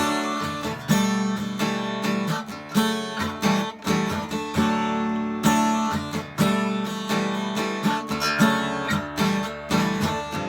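Acoustic guitar strummed in a steady rhythm, playing the closing instrumental bars of a song with no singing.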